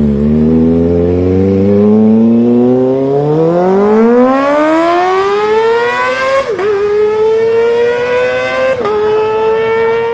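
Kawasaki Ninja ZX-25R's 250 cc inline-four exhaust accelerating hard, its note climbing steadily to a high-pitched scream over about six seconds. The pitch drops sharply twice, at upshifts, then climbs again and holds high.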